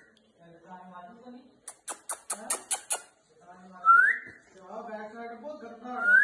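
A pet talking parrot whistling and chattering: two short rising whistles, about four seconds in and near the end, with mumbled speech-like babble between them. About two seconds in comes a quick run of about eight sharp clicks.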